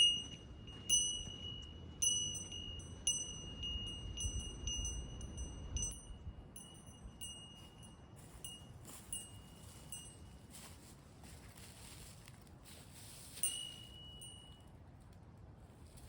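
A small metal bell ringing with a single clear tone, jingling again about once a second at first, then fainter and less regular, with one louder ring near the end.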